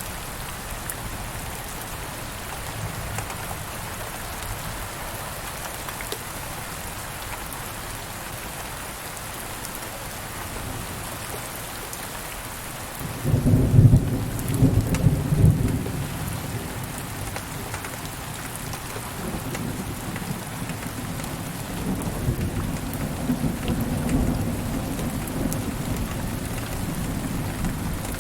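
Steady rain falling, with a crack of thunder about halfway through, loudest for a couple of seconds, then a long low roll of thunder rumbling on under the rain until near the end.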